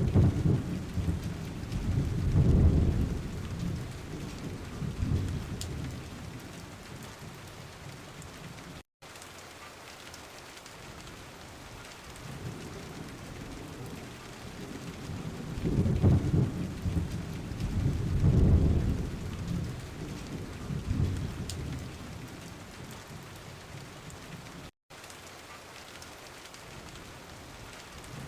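Steady rain falling, with two long rolls of low rumbling thunder, one at the start and one around the middle. The sound cuts out for an instant twice.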